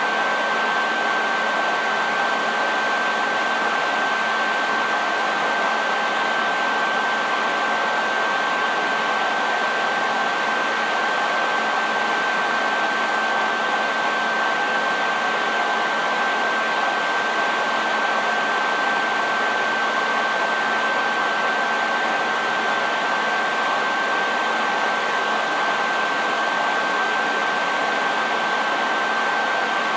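Hair dryer running steadily: an even rush of blown air with a constant high-pitched motor whine and a faint low hum.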